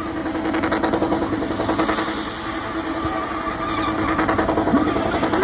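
A spinning car's engine running hard with a fast, even pulse, held steady and getting a little louder near the end.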